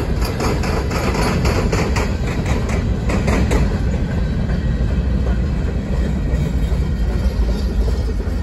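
Norfolk Southern freight train's open-top hopper cars rolling past on the rails: a steady rumble with a fast clatter of wheels over rail joints for about the first three and a half seconds, then a smoother rumble as the last cars go by.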